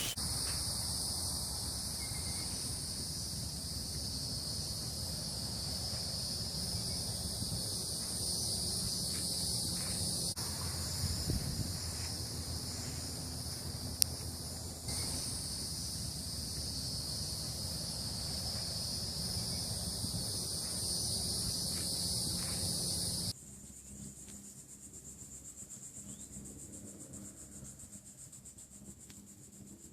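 A steady, high-pitched chorus of insects buzzing outdoors, over a low rumble. It cuts off abruptly about three quarters of the way through, leaving a much quieter background.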